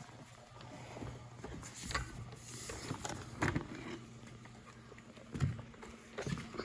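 A few scattered soft knocks and clicks over quiet room tone, with no vacuum motor running.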